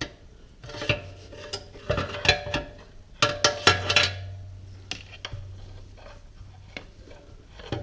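Metal hand tools clinking and clanking against motorcycle parts in irregular clatters, denser in the first half, as a stuck part is worked loose. A steady low hum runs underneath and grows stronger after about three seconds.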